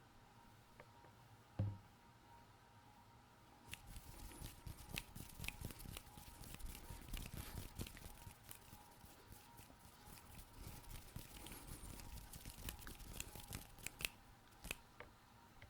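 Fast hand sounds close to a microphone: a dense run of rubbing and scratching rustles with many small clicks, starting about four seconds in and stopping near the end. A single soft, low thump comes about one and a half seconds in.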